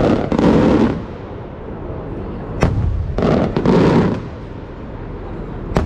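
Traditional Maltese aerial cylinder shells (murtali) going off twice, about three seconds apart, each a sharp crack followed by a longer loud boom. A third crack comes near the end.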